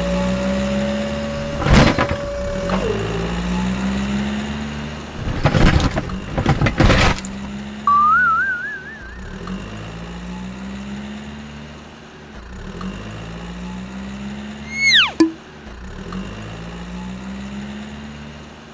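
Edited sound-effect track: a low hum that rises and repeats about every two and a half seconds, with a few sharp knocks. A warbling rising whistle comes about eight seconds in, and a cartoon-style falling whistle near fifteen seconds.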